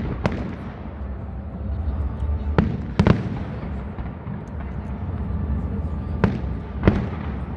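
Aerial firework shells bursting with sharp bangs, about five of them. The loudest is a close pair about three seconds in, and each bang trails off into a short echo.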